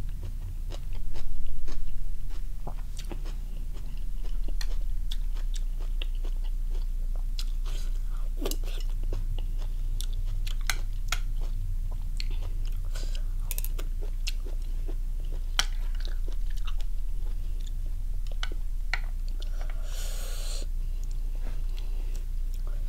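Close-up chewing, biting and wet mouth smacks of a person eating steamed squid and salad, with many scattered sharp clicks throughout. There is a short breathy hiss near the end, and a steady low hum underneath.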